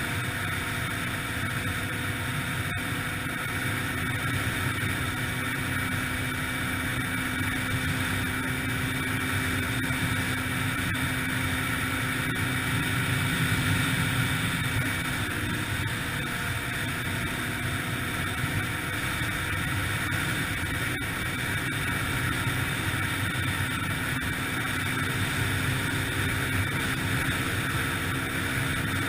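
2003 Yamaha TT-R125LE dirt bike's single-cylinder four-stroke engine running steadily under way, its pitch shifting a little with the throttle.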